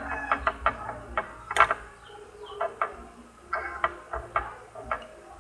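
A stirring utensil clicking and tapping against the mixing container in irregular sharp clicks, as drops of activator are stirred into glue-and-water liquid slime.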